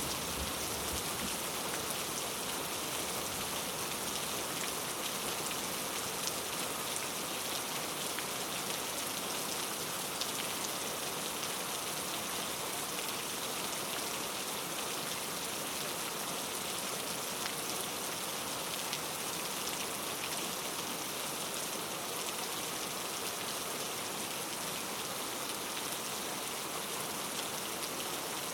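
Steady rain falling, an even hiss of rain with the fine patter of individual drops on a surface.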